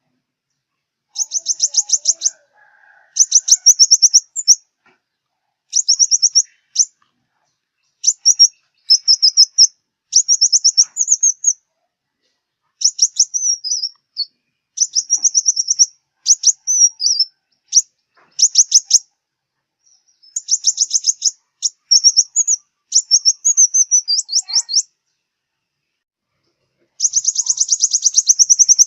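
Sunbird song: rapid, high-pitched trilled phrases, each one to two seconds long, repeated again and again with short gaps between them.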